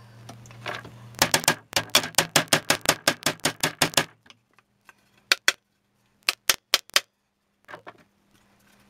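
Pins being hammered into a drill jig: a quick run of light, sharp taps, about four a second, then a few scattered taps.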